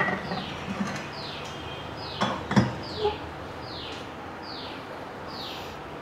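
A bird calls over and over, a short falling note roughly every half second to a second. About two to three seconds in, cookware knocks a few times against the gas stove's burner grate; these are the loudest sounds.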